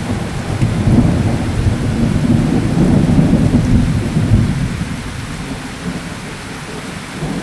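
Thunderstorm: steady rain with a long, low roll of thunder that swells and then fades out over the last few seconds.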